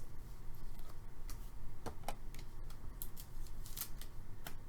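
Hockey trading cards being handled: scattered light clicks and snaps of card stock at irregular intervals.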